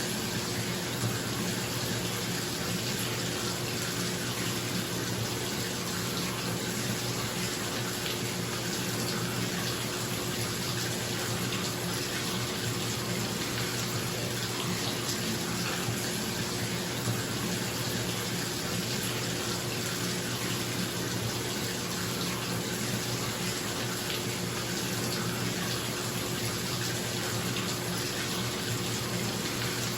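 Tap water running steadily into a filling bathtub, an even rushing splash, with the steady hum of a bathroom exhaust fan underneath.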